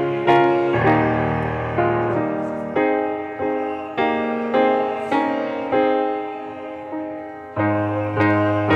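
Piano playing hymn chords, each struck and left ringing as it fades, a new chord roughly every half second to second; deeper bass notes return near the end.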